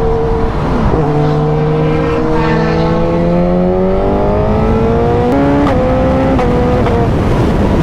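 Suzuki GSX-S inline-four motorcycle engine pulling under acceleration, its pitch climbing steadily through a gear, then a few quick gear changes about five seconds in. Wind rush over the helmet microphone takes over near the end.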